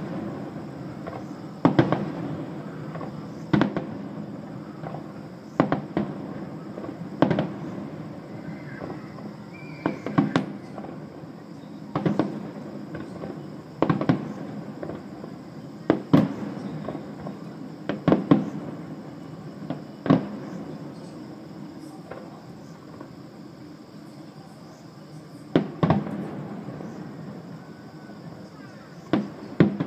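Aerial firework shells bursting, one sharp bang about every two seconds, some as quick doubles, with a pause of a few seconds before two last bangs near the end. A steady low background noise runs beneath.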